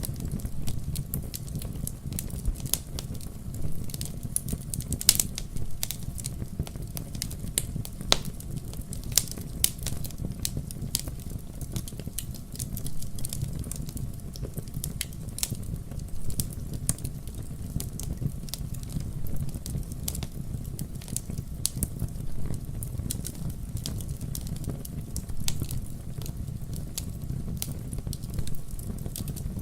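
Wood fire burning in a fireplace: a steady low rumble of flames with constant irregular crackles and pops, a few sharper pops standing out.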